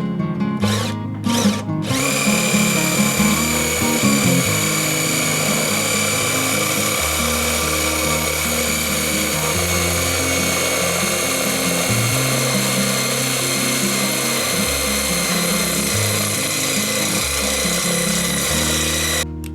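Handheld electric power tool running: two short spurts, then a long steady run whose whine sinks slightly in pitch before it cuts off suddenly near the end.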